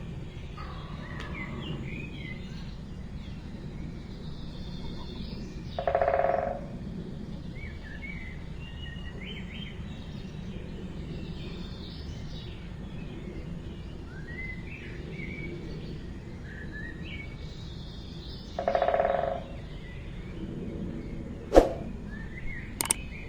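Small birds chirping and twittering on and off over a steady outdoor background hiss, with two louder, lower calls, one about six seconds in and one near nineteen seconds. A few sharp clicks come near the end.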